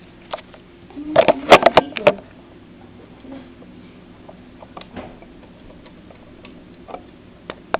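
A quick cluster of loud clicks and knocks about a second in, then scattered faint ticks every second or so.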